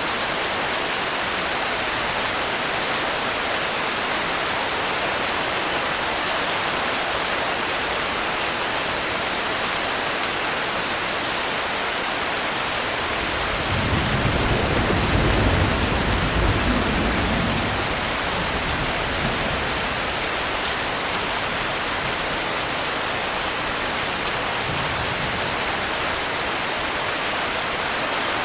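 Steady, even rain. About halfway through, a low rumble of distant thunder swells for a few seconds and fades, with a fainter low rumble near the end.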